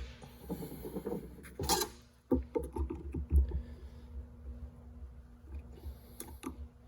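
Irregular clicks, scraping and knocks of tools against plastic and metal parts as the stock gear shifter assembly is worked loose, busiest a couple of seconds in, over a low steady hum.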